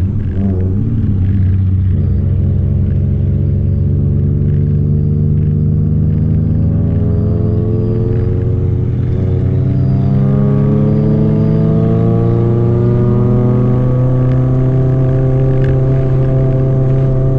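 Honda Civic Nouva's four-cylinder engine heard from inside the cabin, pulling in second gear. Its note rises slowly as the revs build, then holds steady for the last few seconds.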